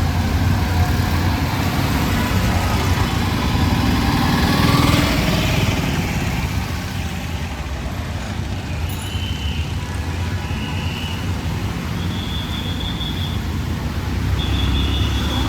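City street traffic: vehicle engines running with a steady low hum, and from about the middle on, four short high-pitched horn beeps.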